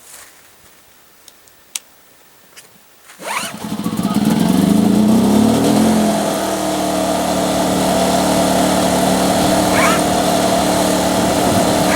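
Champion 2000-watt inverter generator engine starting about three seconds in after a few light clicks, revving up briefly, then settling into a steady run.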